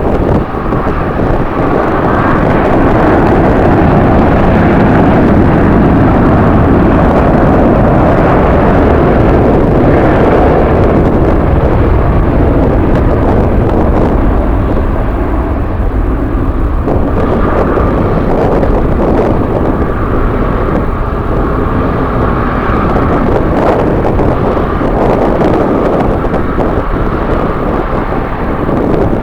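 Jet airliner engines running, a loud steady rush that is strongest in the first ten seconds and eases a little later, with strong wind buffeting the microphone.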